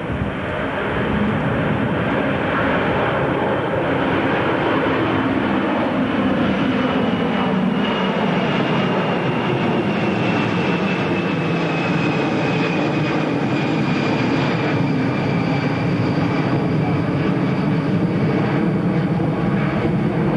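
Jet airliner engines running loud as the aircraft passes, with a high turbine whine that slowly falls in pitch.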